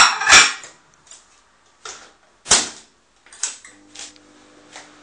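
Loud knocks and clatters as a plate of bacon goes back into a microwave oven and the door shuts, then a few short clicks. About three and a half seconds in, the microwave starts running with a steady low hum.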